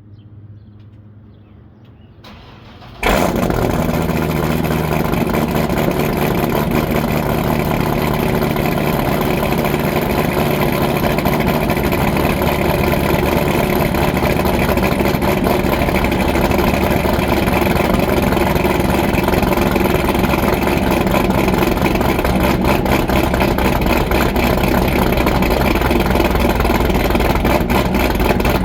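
2013 Corvette C6 Z06's 7.0-litre LS7 V8, with a BTR Stage 3 cam, American Racing headers and Corsa Extreme exhaust, cranking briefly and catching about three seconds in on a cold start. It then runs at a loud, steady idle with the choppy lope of the big cam.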